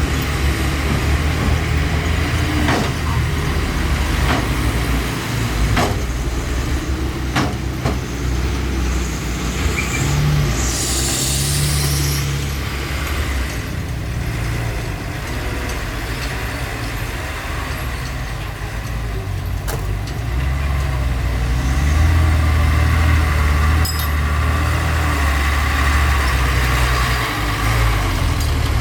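Heavy diesel engine of earthmoving machinery running, with a deep steady rumble. A few sharp knocks come in the first eight seconds, and there is a short burst of hissing air about eleven seconds in.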